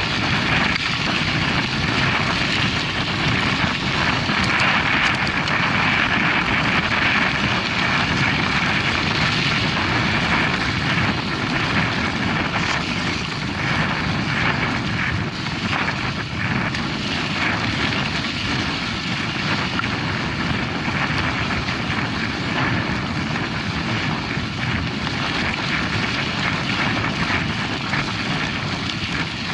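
Steady rushing noise of a mountain bike in motion: wind over the microphone and knobby tyres rolling on a dirt track.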